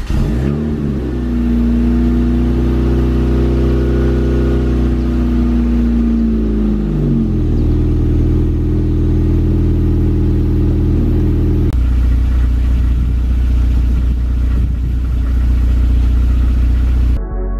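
A 1991 Isuzu Impulse RS AWD turbo's 1.6-litre turbo four-cylinder starts right at the beginning and runs at a raised idle through its single exhaust, settling to a lower idle about seven seconds in. From about twelve seconds in, a second Impulse, a front-drive car with a swapped-in 1.6 turbo, idles steadily.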